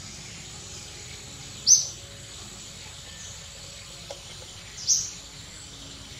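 A bird calling twice, short high chirps about three seconds apart, over a steady high-pitched hum of forest background noise.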